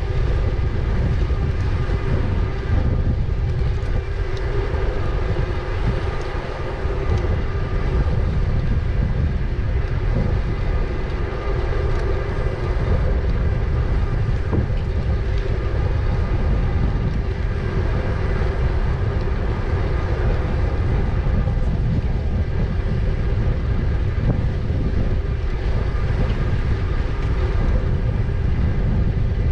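Wind rumbling on the microphone during an e-bike ride, over a steady whine of several held tones from the e-bike's motor.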